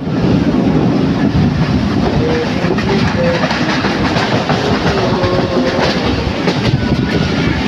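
Passenger train running along the track, heard from on board: a steady loud rumble with the irregular clicks of the wheels over the rails.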